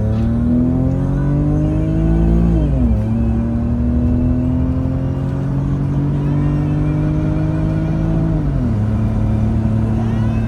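33-year-old Mercedes-Benz engine pulling hard at full throttle down a drag strip. Its pitch climbs and falls suddenly at a gear change about 3 s in, then climbs more slowly through the next gear. At a second shift, near 9 s, it drops again and then holds steady.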